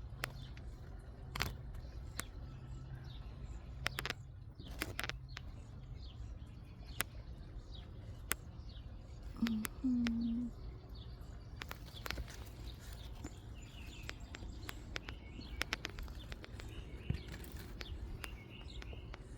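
Small birds chirping now and then over a steady low background rumble, with scattered sharp clicks and rustles. A brief low steady tone, about a second long, sounds about ten seconds in and is the loudest event.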